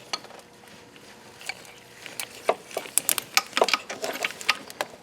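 Metal engine bracket parts clinking and tapping against each other as they are handled and fitted. A quiet first two seconds, then a quick run of sharp clinks.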